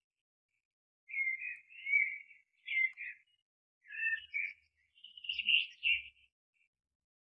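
Small songbirds chirping and twittering in a string of short phrases, starting about a second in and stopping about six seconds in.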